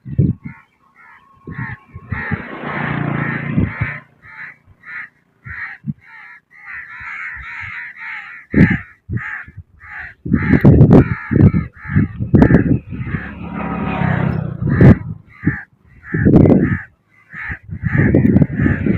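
Crows cawing over and over, several calls a second. Loud low rumbling bumps come in from about halfway through.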